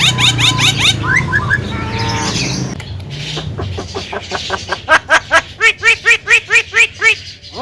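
Javan myna (jalak kebo) calling: a quick run of rising notes, then a few short glides, then from about three seconds in a loud series of repeated arched whistled notes, about four to five a second.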